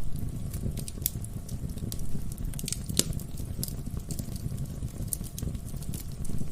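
Wood fire burning in a fireplace: a steady low rumble of flames with irregular sharp crackles and pops from the burning logs, one louder pop about halfway through.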